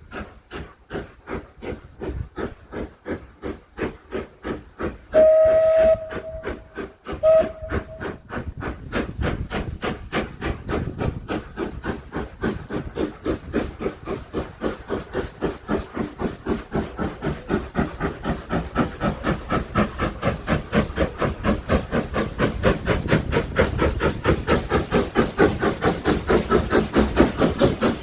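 Taff Vale Railway No 85, an 0-6-2 steam tank engine, pulling away, its exhaust chuffs quickening from slow beats to a rapid rhythm and growing louder. About five seconds in it sounds its whistle, one blast and then a short second toot.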